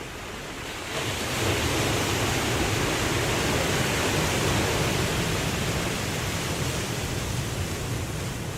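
Ocean wave breaking and washing in: a steady hiss of surf swells suddenly about a second in, holds for several seconds, then slowly eases off.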